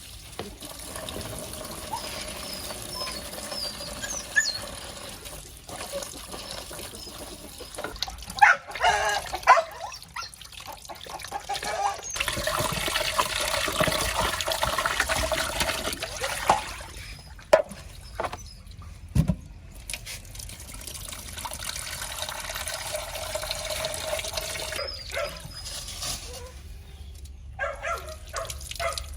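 Water running from a tap, stopping and starting a few times, with a few knocks and clatters in between.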